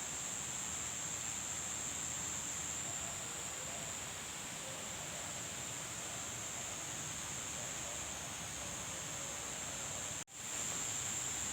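Steady outdoor riverside ambience: an even hiss with a high, steady insect drone over it. The sound cuts out for a split second about ten seconds in.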